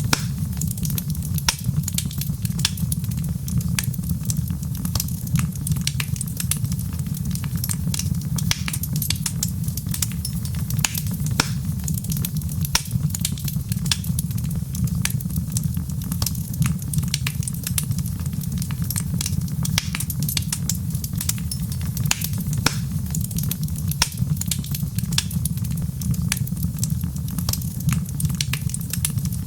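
Wood fire crackling steadily: a low, even rumble of flame under many irregular sharp pops and snaps.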